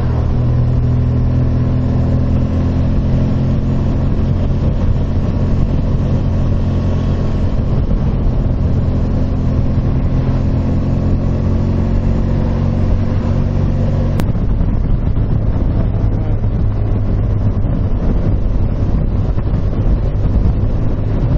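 Motorcycle engine running at a steady road speed while riding, heard from on the bike with wind noise. About 14 seconds in there is a single sharp click, and after it the engine note changes.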